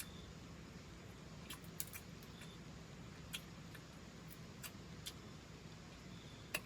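Scattered sharp little clicks and snaps, about one a second, the loudest near the end, over a faint steady low hum.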